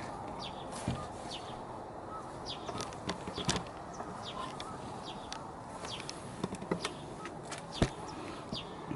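Small birds chirping now and then, short falling chirps, over a steady background hiss, with a few sharp clicks.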